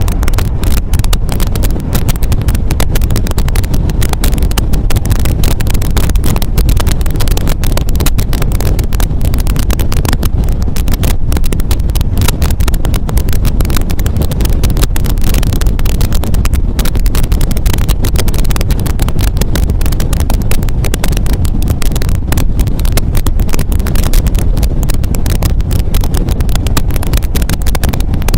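MGA roadster's four-cylinder engine running steadily while the car is driven, under heavy wind buffeting on the microphone.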